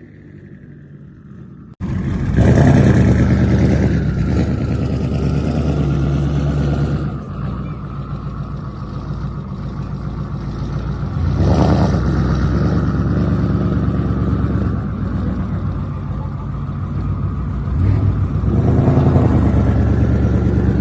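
Twin-turbo Ford Shelby GT500's V8 running loudly at a low rumbling idle, blipped up in revs about two seconds in, near the middle and near the end. The engine sound cuts in abruptly after a quiet first two seconds.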